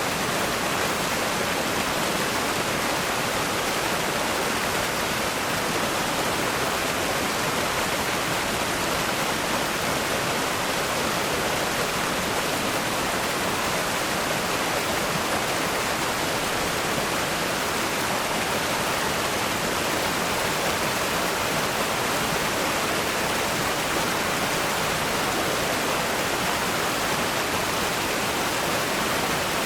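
Steady rush of a fast-flowing river, its rapids pouring over rocks in an even, continuous hiss.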